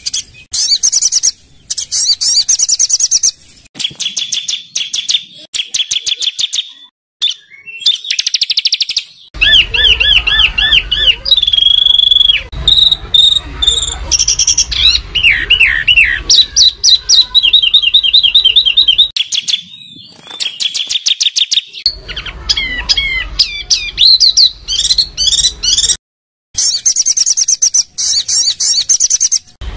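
Songbird song in spliced segments: rapid trills and fast volleys of sharp, harsh notes alternate with clearer whistled phrases. There are abrupt cuts between recordings. It is the loud, rough 'tembakan' style used as tutor song for competition songbirds.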